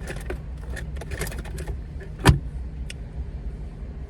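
Steady low rumble of a car heard from inside the cabin, with small clicks and rattles and one sharp knock about two seconds in.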